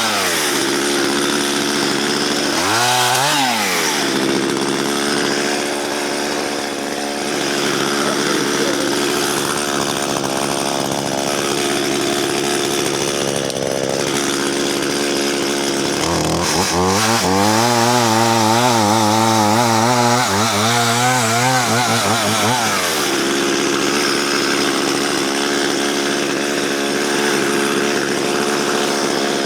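Chainsaw cutting through a spruce log at high revs, with a stretch past the middle where the engine note drops and wavers as the saw bogs down in the cut. The chain is dull, so the saw has to be revved and worked back and forth to get through the wood.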